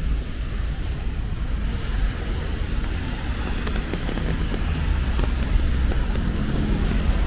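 City street traffic on a rainy day: motor vehicles running past with a steady low rumble under a continuous hiss, an engine hum rising near the end.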